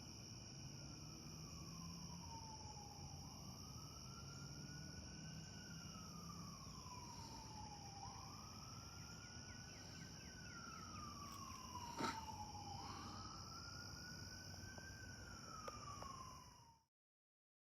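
A faint emergency-vehicle siren wailing, rising quickly and falling slowly about every four and a half seconds, over a steady high chirring of night insects. A sharp click comes about twelve seconds in, and all sound stops abruptly near the end.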